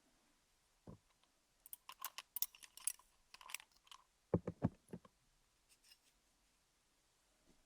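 Wooden sticks tapping and scratching over a rhinestone-studded ASMR dummy-head microphone. Scattered crisp clicks and short scrapes come in a few clusters, with a high, bright flurry two to three seconds in and lower knocks at about four and a half seconds.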